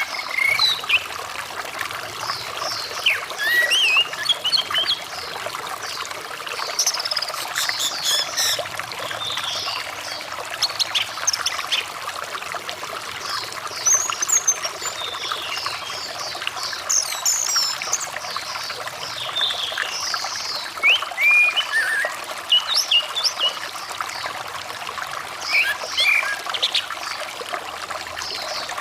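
Running water trickling and pouring steadily, with an orange-headed thrush singing over it: a varied, rapid string of short whistles, chirps and quick up-and-down slurred notes.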